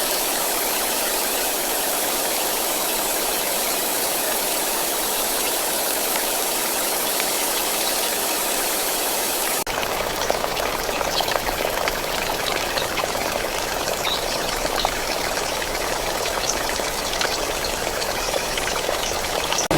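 Steady rain hiss. About ten seconds in it cuts abruptly to a softer, lower rain sound with scattered tapping drops.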